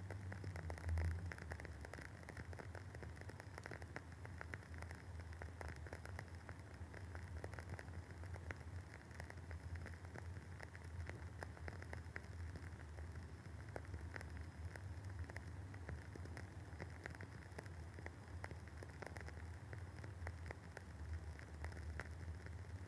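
Wooden wick of a Woodwick candle burning with a continuous soft crackle of many small, irregular pops, over a low steady hum. One louder pop comes about a second in.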